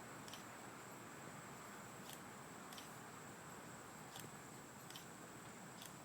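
Near silence: faint night ambience of steady hiss with a thin, high, steady whine and a few faint short ticks.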